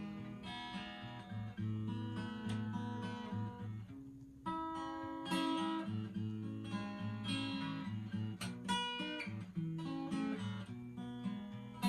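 Acoustic guitar played solo in an instrumental break: strummed and picked chords ringing out, with a brief pause about four seconds in.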